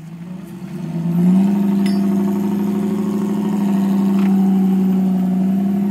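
Off-road 4x4's engine revving up about a second in, then held at steady high revs as it climbs a steep bank.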